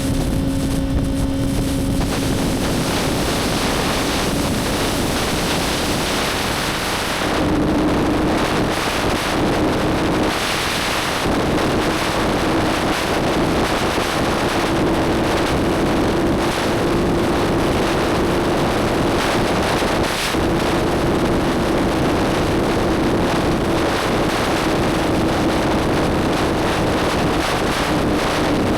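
Motorcycle engine running steadily on the move, with heavy wind rush over the microphone. The engine note rises about seven seconds in, breaks off briefly a few seconds later, then holds steady.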